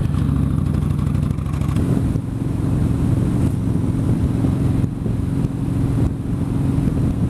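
Yamaha Stryker's V-twin cruiser engine running steadily under way, a low drone that picks up a slightly higher steady tone about two seconds in.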